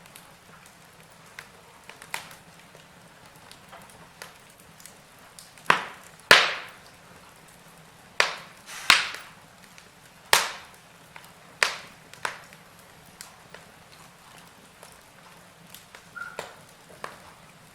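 Wood fire burning in a fireplace: a low steady hiss broken by irregular sharp crackles and pops from the burning logs, a few much louder ones clustered in the middle.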